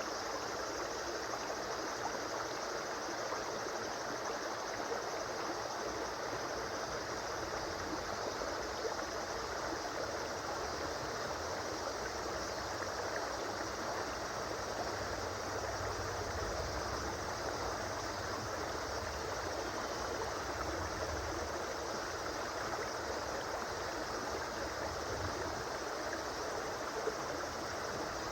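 River water flowing and babbling over stones, a steady rushing and gurgling with no break.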